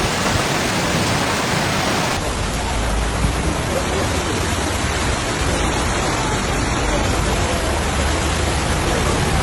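Heavy rain pouring down as a steady, dense hiss, with a cut to another stretch of downpour about two seconds in.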